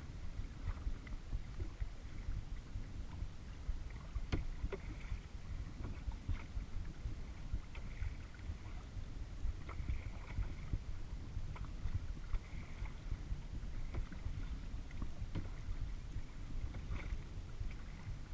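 Kayak paddle strokes: the blades dip and splash in the water with dripping, every second or two, over a steady low rumble.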